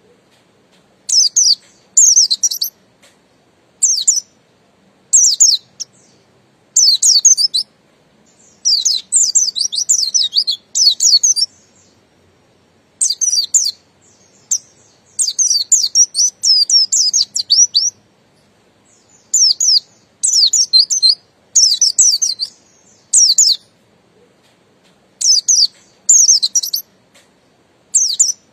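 Buxtoni white-eye (pleci) singing: short bursts of rapid, high, twittering chirps, repeated every second or two with brief pauses between them, some bursts running on for up to two seconds.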